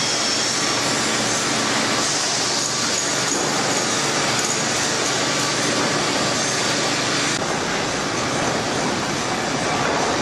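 Sawmill machinery running: a steady, loud, dense mechanical noise with a faint high whine, shifting slightly twice as the scene changes.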